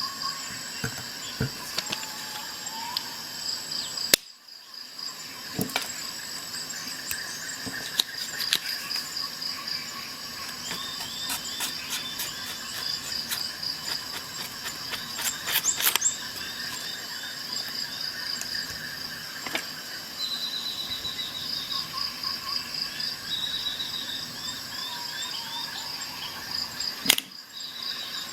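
Insects, crickets among them, chirping steadily in a fast pulsing trill, with short series of higher chirps and scattered sharp clicks.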